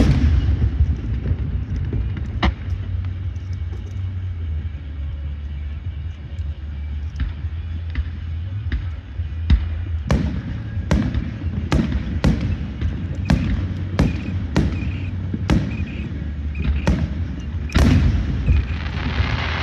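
Fireworks going off: sharp bangs, a few scattered at first, then a quick run of them roughly every half second from about halfway through, over a steady low rumble.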